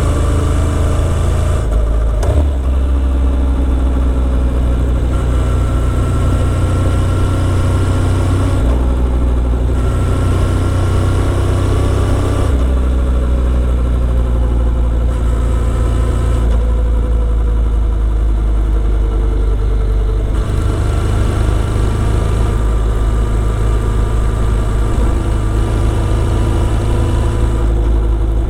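Motorcycle engine running on a ride, its note drifting slowly up and down and changing in steps every few seconds with throttle.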